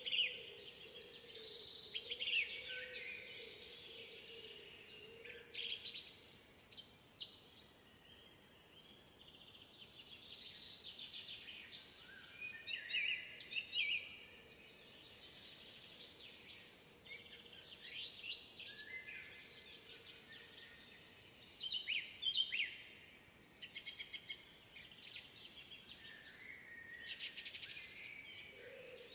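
Several songbirds singing in a spring woodland: overlapping chirps, trills and short song phrases throughout, with a faint steady hum underneath at the start.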